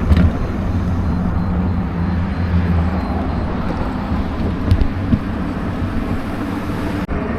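Steady low rumble of wind and tyre noise from an e-bike riding along a wet road, with a brief cut-out near the end.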